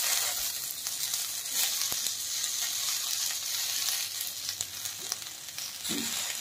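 Peas, potato and carrot frying in hot mustard oil in a kadai: a steady sizzling hiss just after the peas go in.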